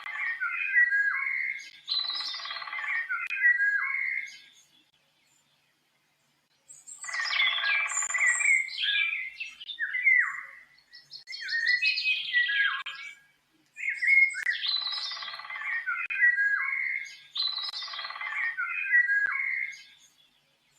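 A songbird singing repeated song phrases of a few seconds each, each opening with a harsh, buzzy note and running into a string of clear whistled notes, with a pause of about two seconds early on and a short one near the end.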